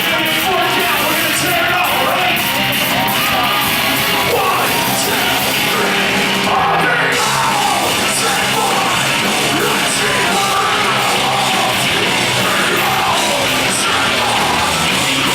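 Live heavy rock band playing loud, with a singer yelling and screaming the vocals over the band.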